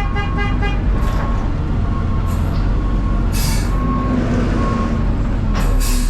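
Heavy truck engine running, heard from inside the cab, with a beeping alarm sounding about once a second. There is a short rapid beep right at the start and brief air hisses about three and a half and six seconds in.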